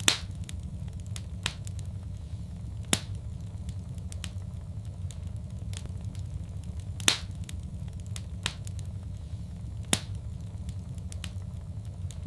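Wood fire crackling in a fireplace: a steady low rumble of the flames with sharp, scattered pops every second or few, the loudest at the start and about seven and ten seconds in.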